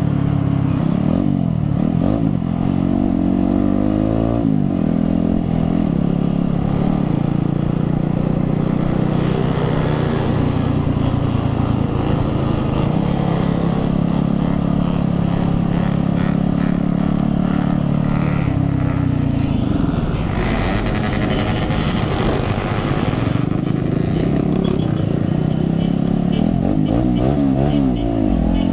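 Motorcycle engine running while riding, its pitch climbing and dropping as the rider opens the throttle and shifts gears.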